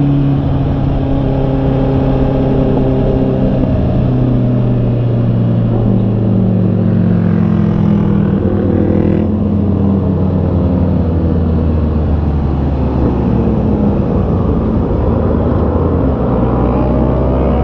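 Honda CB650R's inline-four engine running under way, its pitch stepping up and down a few times as the speed changes, over a steady rush of wind noise.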